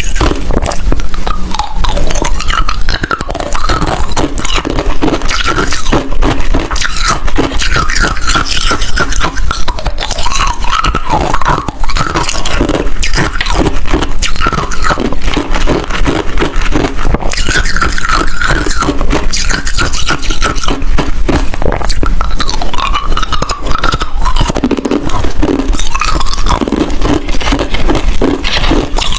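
Ice being bitten and chewed close to the microphone: a dense, loud run of rapid crunches with no pause.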